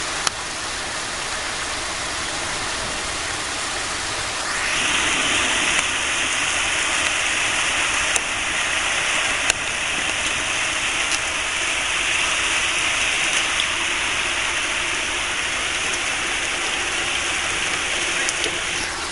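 Heavy downpour: a steady rush of rain and running water, growing louder and brighter about four and a half seconds in, with a few faint sharp clicks.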